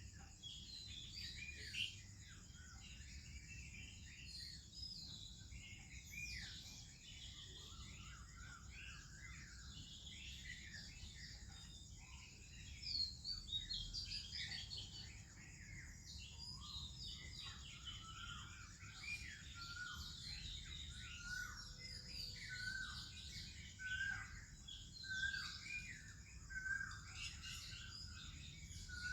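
Morning chorus of several songbirds chirping and warbling over one another, with Oriental magpie-robin song among them. Later on, one bird repeats a short note about once a second. A steady high hiss sits underneath.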